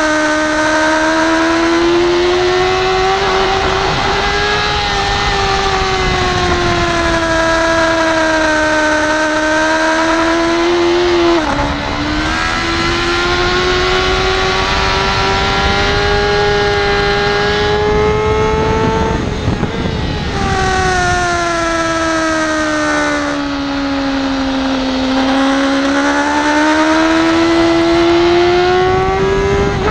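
BMW S1000RR's inline-four engine at high revs on track, its pitch climbing under throttle and sagging off it, with a quick drop in pitch about eleven seconds in that sounds like a gear change. Wind rush runs underneath.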